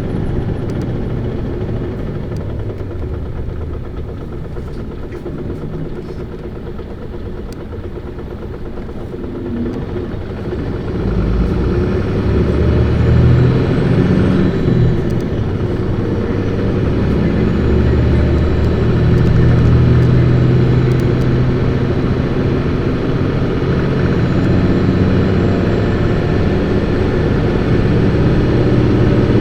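Isuzu Erga city bus's inline-six diesel engine, heard from inside the bus as it drives. It runs quieter for the first ten seconds, then about eleven seconds in it is revved hard under acceleration and grows louder, with a short break in the note near the middle that fits a gear change.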